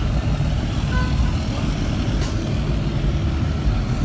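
Truck engine running with a steady low rumble. A short high tone sounds about a second in, and there is a brief click a little after two seconds.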